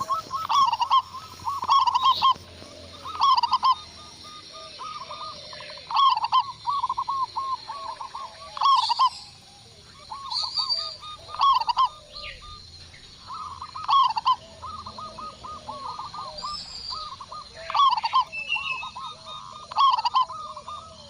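Zebra doves (perkutut) cooing: repeated phrases of quick bubbling notes, one phrase every second or two. A few thin higher notes sound between the phrases.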